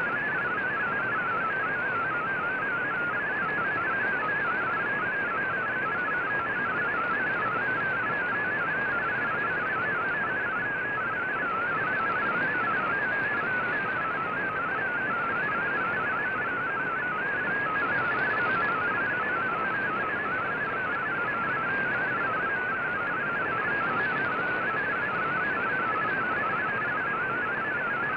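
MFSK digital-mode data signal from the VOA Radiogram shortwave broadcast, received on an Icom IC-R9500: a fast, warbling stream of hopping tones in a narrow pitch band over steady shortwave hiss.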